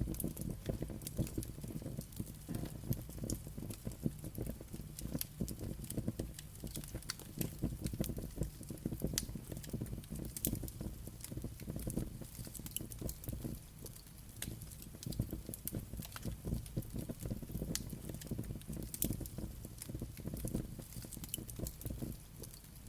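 Wood fire crackling, with frequent irregular sharp pops and snaps over a low steady rumble of the burning.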